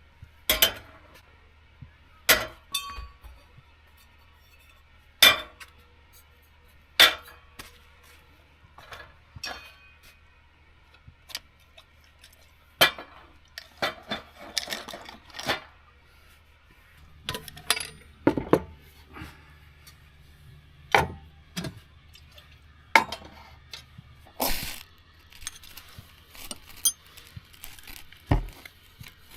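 Camp cookware and gear being handled: a string of separate clinks and knocks of pots, dishes and utensils set down and moved, at irregular intervals of a second or more.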